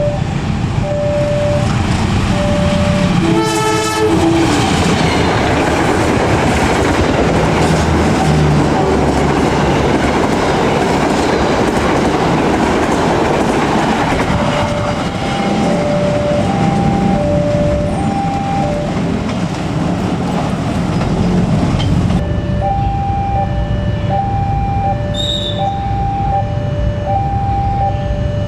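A train passing fast over a level crossing, its wheels rumbling and clattering, while the crossing's warning alarm beeps steadily in repeated pulses. The locomotive horn gives one short blast about four seconds in, and the train noise falls away after about 22 seconds, leaving the alarm beeping.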